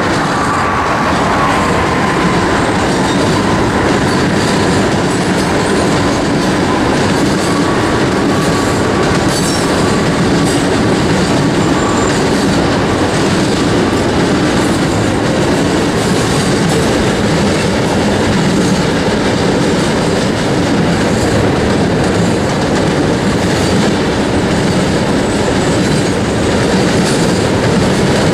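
Cars of a coal train rolling past at track speed: a steady, loud rumble with the clickety-clack of wheels over the rail joints, and a faint thin wheel squeal that fades over the first several seconds.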